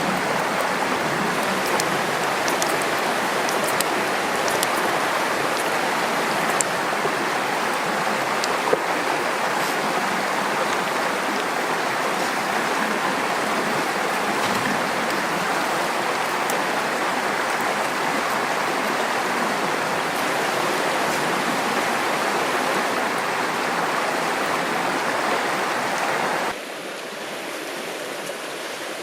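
River water flowing steadily, with a few faint ticks in the first several seconds. It drops noticeably quieter near the end.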